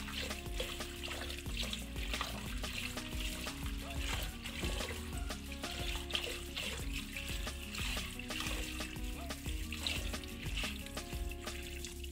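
Tap water running and splashing in a sink as hands rub and swish leaves in a plastic colander full of water. Background music plays throughout.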